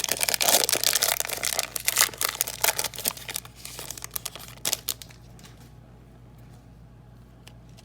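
A trading card pack's wrapper being torn open and crinkled by hand for about five seconds, then the sound drops away to quiet handling.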